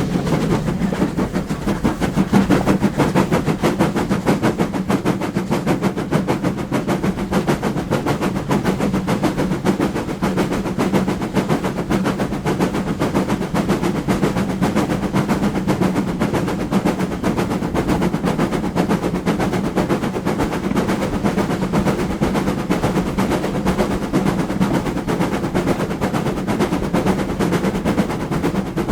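Steam-hauled train running, with a fast, continuous rhythmic clatter over a steady low hum.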